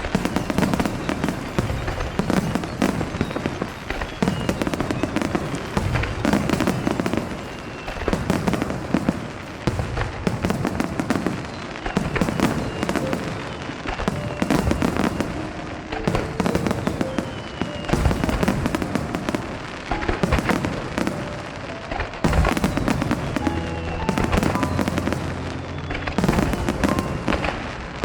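Fireworks display: shells bursting one after another in quick succession, with crackling and deep booms, over music from the show's loudspeakers.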